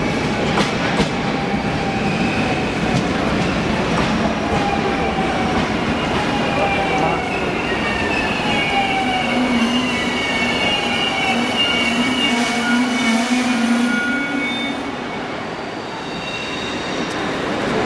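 NS double-deck electric passenger train running along the platform track, its wheels squealing with gliding high tones over a steady rumble and a hum. The level dips briefly near the end.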